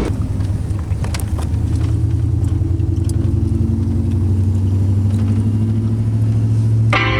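Vehicle engine running at a steady speed, a low even hum that neither revs up nor drops.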